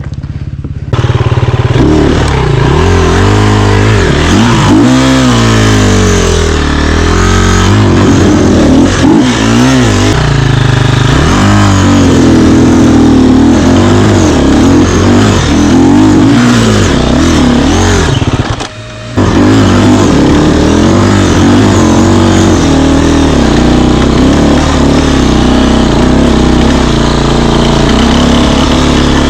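Enduro dirt bike engine running hard, its pitch rising and falling repeatedly as the throttle opens and closes. The sound drops out briefly about two-thirds of the way through, then carries on.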